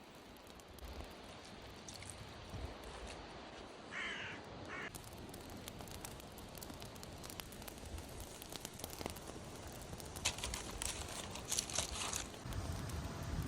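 Quiet outdoor ambience with scattered light clicks, and a crow cawing twice about four seconds in. A few seconds before the end come louder bursts of hissing crackle.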